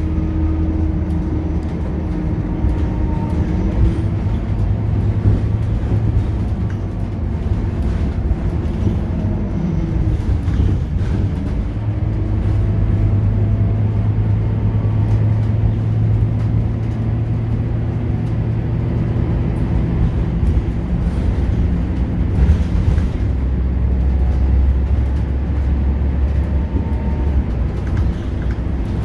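Scania K230UB bus's diesel engine and ZF automatic gearbox running under way. The engine note dips and climbs again about a third of the way in, holds steady, then settles to a lower note about three quarters through as the revs and gears change.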